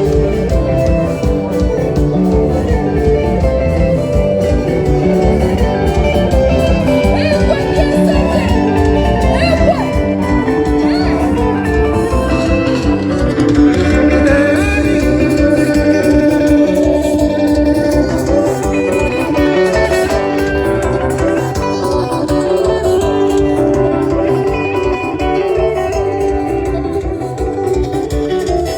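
Live band music with electric guitars, bass and a steady drum beat, played for dancing.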